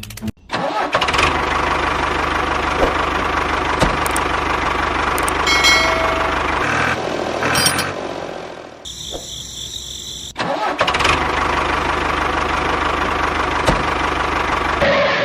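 A motor running steadily. It starts about half a second in, gives way briefly to a different sound around nine seconds in, then runs again and cuts off suddenly at the end.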